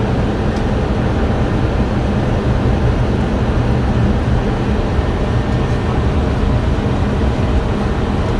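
Steady cockpit noise of an Airbus A320 on approach: a constant rush of airflow with the low drone of the engines.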